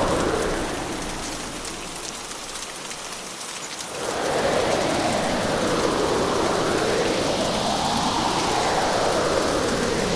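Hurricane storm ambience: heavy rain with gusting wind. The storm eases after about half a second, then surges back about four seconds in with a whoosh that swells and fades every second or two.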